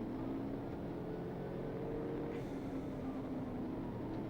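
Steady engine drone and road noise of a police patrol car driving at speed in pursuit, its pitch drifting slightly.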